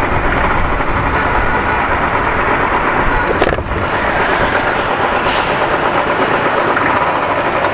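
Steady, loud road traffic noise from vehicles running on a busy street. There is one short sharp sound about three and a half seconds in.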